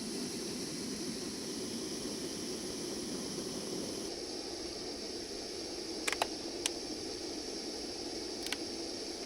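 Portable camping gas stove burner running with a steady hiss. A few light knocks come about six seconds in and again near the end.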